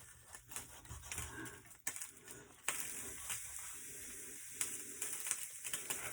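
Kitchen knife cutting through a raw whole bird, with crunching, cracking clicks of bone and cartilage. A steady hiss comes in a little before halfway and runs under further cracks.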